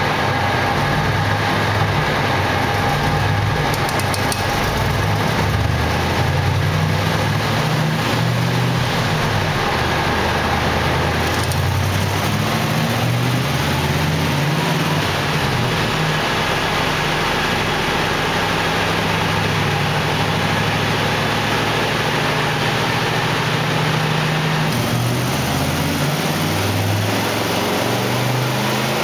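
1985 Corvette C4's 350 tuned-port-injected small-block V8 running steadily at low revs on a chassis dyno, driving the rear wheel on the roller.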